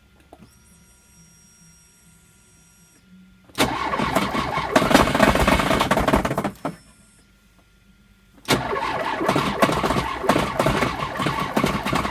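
Turbocharged VAZ-2104 engine started about three and a half seconds in, running with a rapid knocking for about three seconds and then stopping. It starts again about eight and a half seconds in and keeps running with the same fast knocking. The owner cannot find the source of the knock: the valves and springs check out, and the timing chain and tensioner are new.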